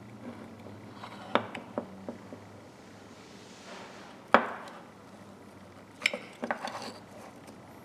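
Clicks and knocks of small metal tools being handled and set down, with one sharp clack about four and a half seconds in and a quick run of clicks near the end.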